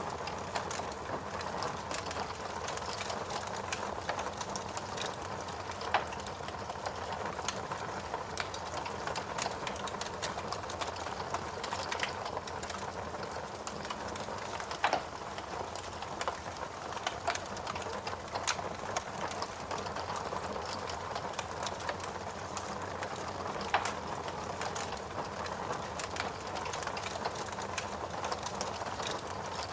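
Wood fire burning in a fireplace, crackling and popping irregularly over a steady hiss, with a few sharper pops standing out.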